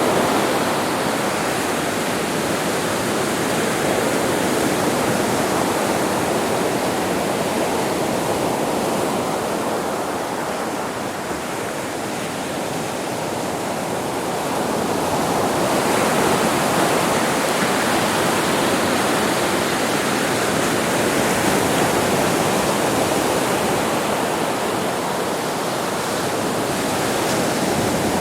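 Sea waves washing onto a beach: a continuous surf rush that eases off about ten seconds in and swells again a few seconds later.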